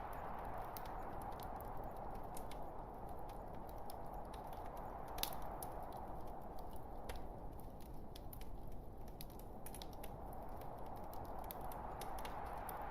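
Burning logs crackling in a fireplace: a steady hiss with irregular sharp pops and snaps, the loudest pop about five seconds in.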